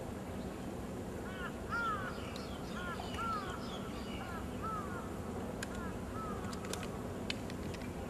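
A bird calling outdoors: a series of short calls, each rising then falling in pitch, for several seconds, over a steady low background hum. A few faint sharp clicks follow near the end.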